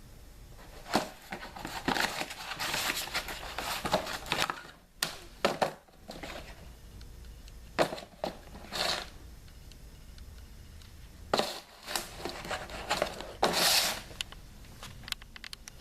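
Plastic wrapping crinkling and tearing as a new engine air filter is unwrapped and handled, with irregular rustles and sharp clicks.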